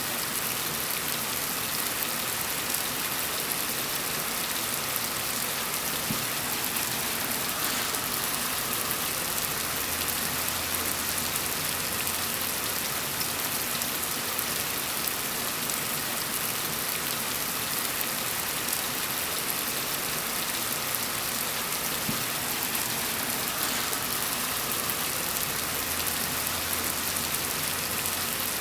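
Steady, gentle rain falling on a surface, a dense even patter with no thunder.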